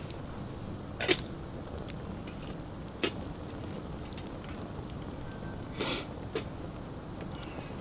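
Wood campfire burning, with a few sharp pops and crackles over a steady low rumble; the loudest pop comes about a second in, and a longer crackle comes near the end.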